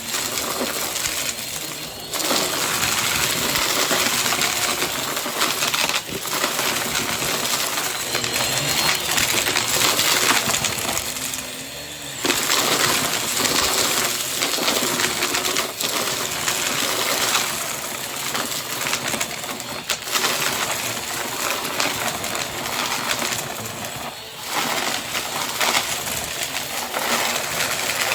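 Vacuum cleaner running, its motor and airflow making a continuous rushing noise that dips briefly now and then as it is pushed over the floor.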